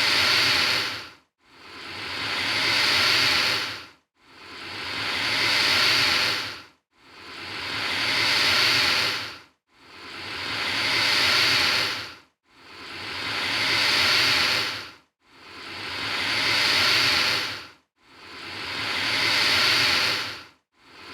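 Alligator hissing, repeated about every two and a half to three seconds: each hiss swells up over a couple of seconds and then cuts off sharply.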